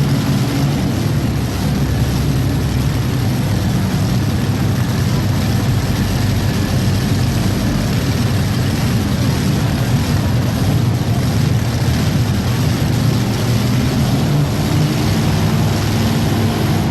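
Modified pulling tractor's engines running hard and steady, a loud, unbroken drone.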